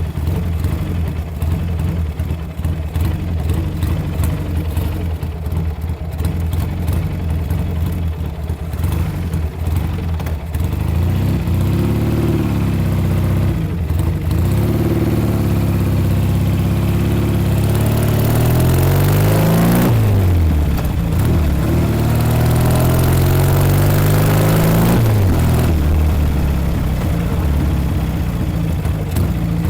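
1956 Norton Dominator 500 parallel-twin engine under way. It holds a steady note for the first third, then revs up through the gears, its pitch climbing and dropping back at each change.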